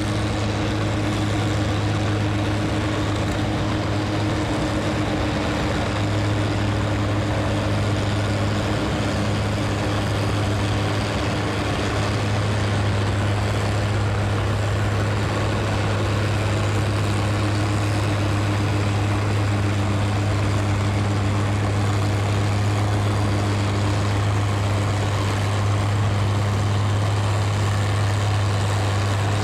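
Heavy engine running at one constant speed, a steady hum with no revving.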